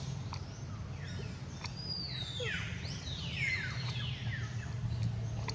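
Birds calling: several quick chirps that fall in pitch come in the middle, over a steady low rumble.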